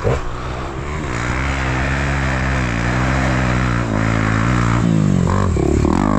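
KTM 300 two-stroke dirt bike engine revving: the pitch climbs about a second in and is held high, eases briefly about four seconds in, then rises again near the end.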